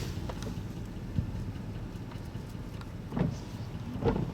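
Steady low rumble of a car heard from inside its cabin, with a few short thumps about a second in and twice near the end.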